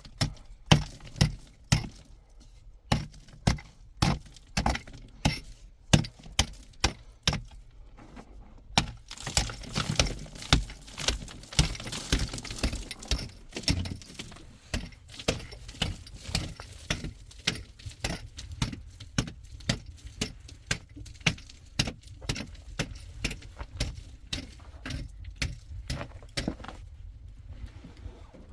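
Repeated sharp knocks and clinks of hard objects, about one to two a second, with a hissing stretch in the middle.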